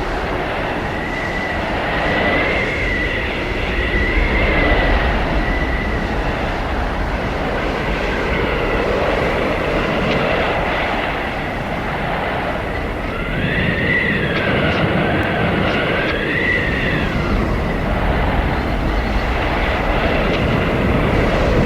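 Blizzard wind howling over a steady rush and low rumble, with whistling tones that rise and fall in pitch. The howl swells twice, a few seconds in and again about two-thirds of the way through.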